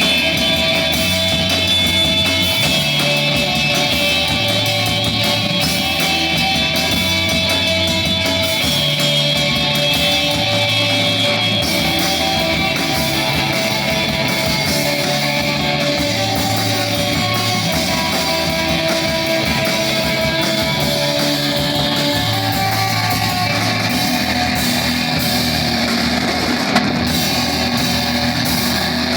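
Noise-rock band playing live: electric guitars holding sustained droning notes over low notes that shift about every two seconds.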